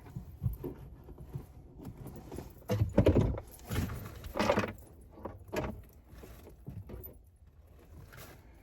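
Loose coins being handled, jingling and rustling in short irregular bursts.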